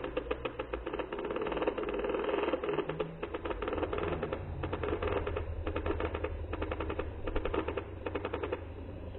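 Toy train running, a rapid clicking clatter of its wheels and gears that stops shortly before the end.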